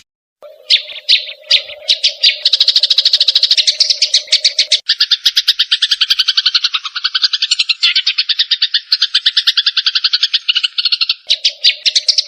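Rapid chattering bird calls, about ten sharp notes a second in long unbroken runs, from a cucak jenggot (grey-cheeked bulbul) squabbling with Eurasian tree sparrows. The track is spliced, with sudden changes in the calls about a third of the way in and again near the end. A low steady hum sits under the calls for the first third and again near the end.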